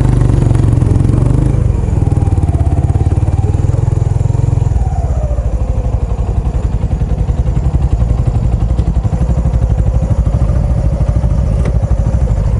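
Kawasaki Estrella's single-cylinder four-stroke engine running through an aftermarket Yamato muffler while the motorcycle is ridden, a steady thumping exhaust note. It is louder for the first few seconds, then eases off as the throttle comes back.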